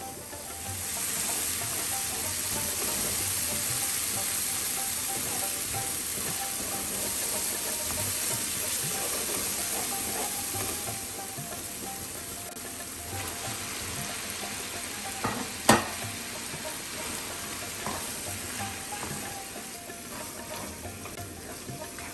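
Onion and spice masala sizzling in hot oil in a non-stick pan while a wooden spatula stirs it. The sizzle eases about halfway through as raw mince meat goes in, and a single sharp knock sounds about two-thirds of the way through.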